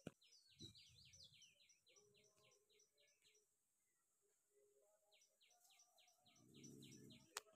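Near silence: faint outdoor ambience with a small bird chirping rapidly, about five chirps a second, in two bouts.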